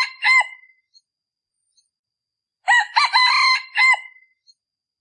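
Male junglefowl decoy cock crowing: the tail of one crow at the start, then one full, short crow about three seconds in, with silence between. This crow is used as a lure call to draw wild junglefowl cocks.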